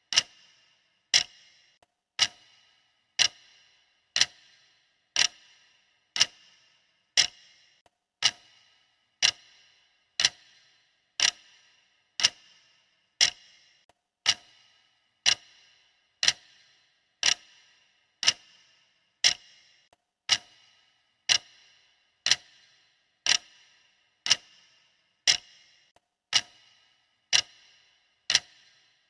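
Clock ticking sound effect of a countdown timer: one sharp tick a second, steady and even, each with a short ringing tail.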